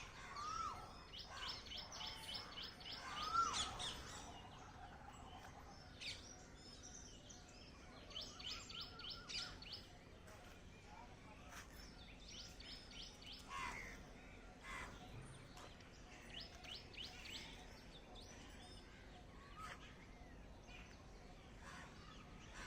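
Birds calling: bursts of rapid high chirps come back every few seconds, with a few lower whistled notes between them, over a faint steady background.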